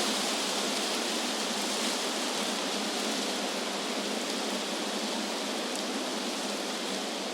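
Wind rushing through tree leaves: a steady, even hiss with no gusts or breaks.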